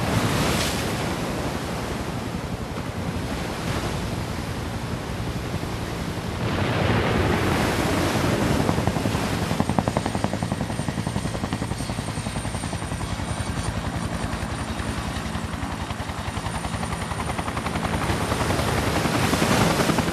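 Steady engine drone with a fast pulsing beat, over a haze of wind and surf noise; it swells about a third of the way in and again near the end.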